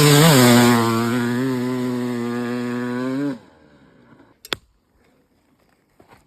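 TM 300cc two-stroke dirt bike engine held at high revs with a quick blip near the start, then cutting off abruptly about three seconds in. A single sharp click follows, then near silence.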